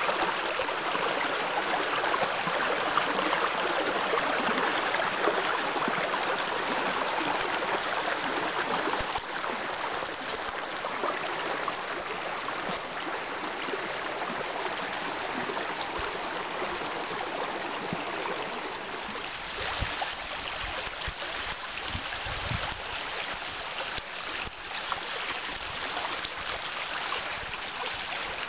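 Spring meltwater stream rushing and splashing over a small waterfall, a steady rush of water that drops a little in level about a third of the way in. A few low bumps come through about two-thirds of the way in.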